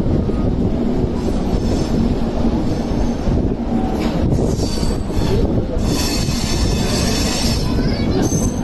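LHB passenger train running on the track: a steady loud rumble with a few brief high-pitched wheel squeals, and a brighter hiss from about six to eight seconds in.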